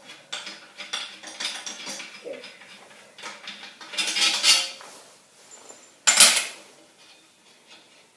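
Metal engine parts and hand tools clinking and rattling while a small pull-start engine's head is dismantled. There is a louder rattle about four seconds in and a sharp metal clack about six seconds in.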